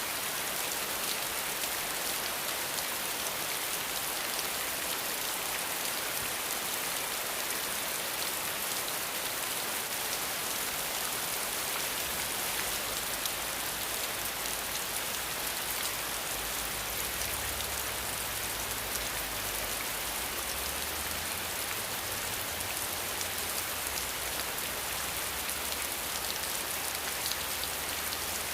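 Steady rain: a dense, even hiss of falling drops with fine pattering on top. A faint low rumble comes in underneath partway through.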